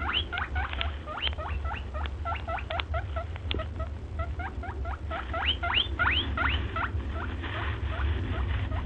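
A group of small animals giving many short, high-pitched rising squeaks, several a second and overlapping, over a steady low hum.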